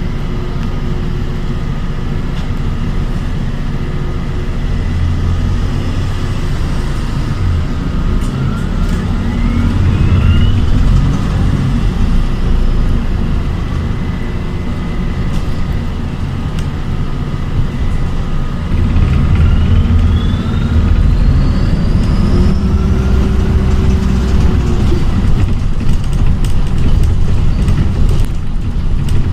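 ADL Enviro 400 hybrid (E40H, BAE Systems HybriDrive) double-decker bus heard from on board while driving, with a steady low rumble. Its electric drive gives a whine that rises in pitch as the bus accelerates, twice: about a third of the way in and again about two-thirds of the way in.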